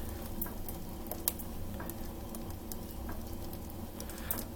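Homemade waste-oil garage stove burning with its door closed under strong draft: a steady low rumble of the flame with scattered sharp crackles and sizzling.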